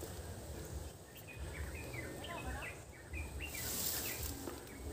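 A bird calling in a quick run of short, falling chirps for about two seconds, starting about a second in, over a low steady rumble.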